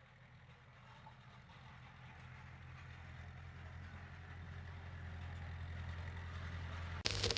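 An engine running at a steady idle, a low even hum that grows steadily louder, cut off near the end by a sudden burst of loud hiss.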